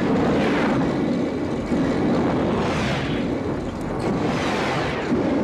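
Car engine running hard under acceleration with heavy road and tyre noise, swelling twice.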